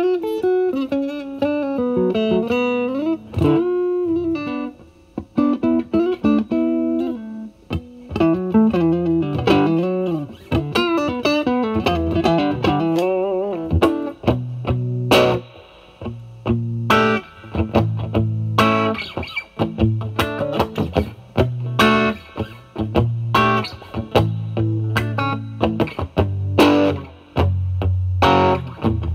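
Electric guitar (Stratocaster) played through a Vertex Steel String Clean Drive overdrive pedal with its gain at maximum, into the clean channel of a Valvestate amp. For about the first half it plays single-note lead lines with string bends, then switches to short, choppy chord strikes over low notes.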